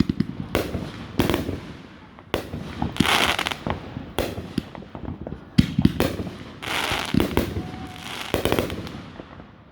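Aerial fireworks shells bursting one after another, several sharp bangs with crackling tails after them.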